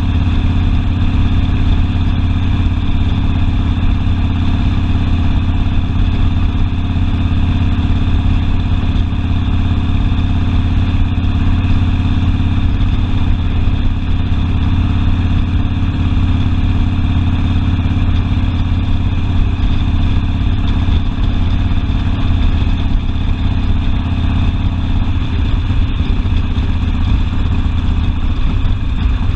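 Harley-Davidson Sportster V-twin engine running steadily, with an even, deep exhaust note and no large changes in revs.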